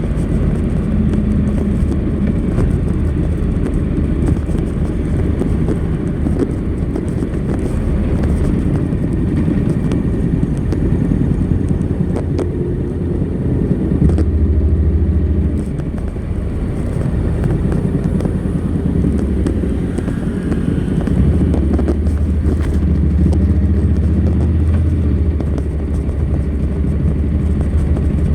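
Honda NC700X's parallel-twin engine running through its stock exhaust, a steady low drone under way. The rumble gets stronger for a couple of seconds about halfway through, and again from about three quarters of the way to the end.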